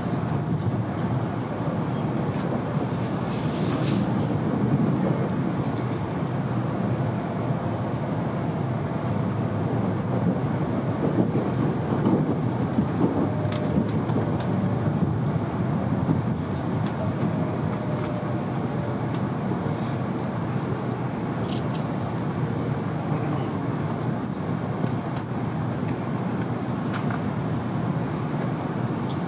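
Cabin running noise inside an N700-series Shinkansen car: a steady rumble of wheels and rushing air, with a faint whine drifting in pitch at times and a few light clicks.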